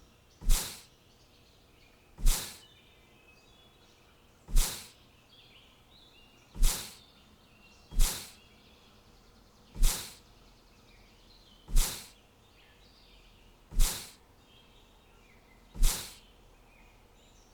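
Faint birds chirping, cut across about every two seconds by a loud, sudden sound effect that dies away within half a second; it comes nine times.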